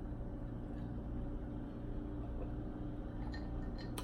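Steady low background hum with a constant drone, and a few faint clicks near the end.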